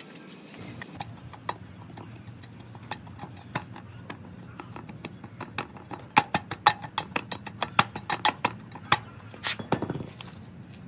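A run of sharp taps and light knocks, like hand tools striking metal work. They are sparse at first, then come louder and quicker, about four or five a second, from around the middle until shortly before the end, over a low steady hum.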